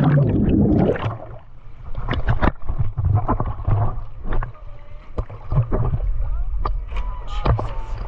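Water sloshing and slapping against a boat's hull, with many short knocks and a steady low wind rumble on the microphone. A loud splash comes right at the start.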